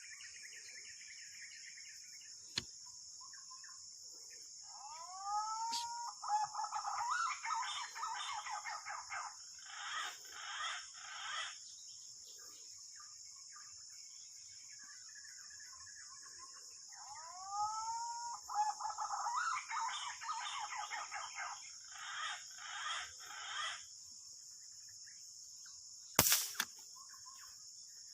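A bird gives two long calls, each opening with rising sweeps and going into a run of harsh notes, over a steady high-pitched drone. Near the end comes a single sharp crack, an air rifle shot at green pigeons that brings down a bird.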